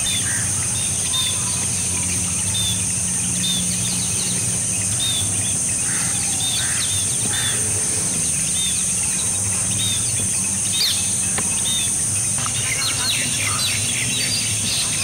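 Short, high bird chirps repeating about once a second over a steady high-pitched insect drone, with a low steady hum underneath.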